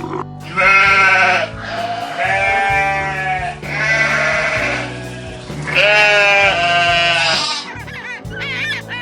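Several long, quavering bleats from a sheep or goat, each about a second long, over background music.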